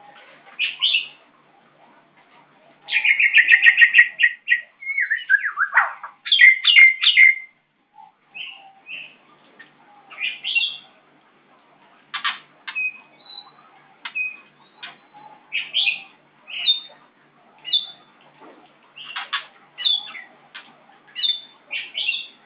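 White-rumped shama singing and calling: a fast rattling trill about three seconds in, a falling whistle, then a long run of short sharp notes and clicks with pauses between them.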